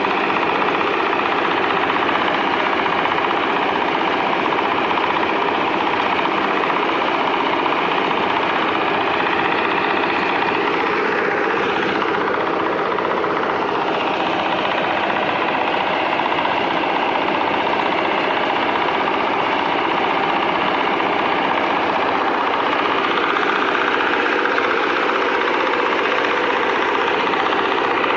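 A small paddy and wheat harvester running: its engine and machinery give a loud, steady noise without a break.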